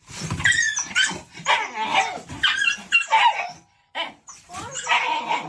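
A dog barking and yelping in a rapid series of high calls, with brief pauses near the middle and toward the end.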